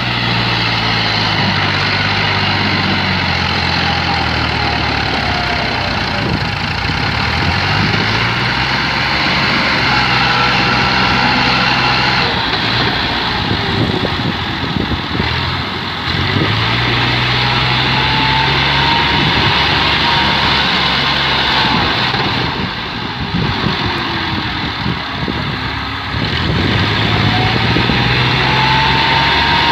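Tractor engine running hard under load, its pitch rising and falling as it is revved up and eased off several times.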